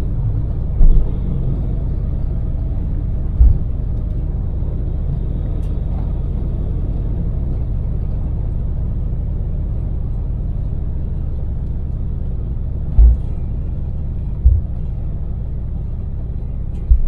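Daewoo Damas mini van's small LPG-fuelled engine and road noise in a steady low rumble heard from inside the cabin at cruising speed. A few brief low thumps stand out above it, about a second in, near three and a half seconds, and several times near the end.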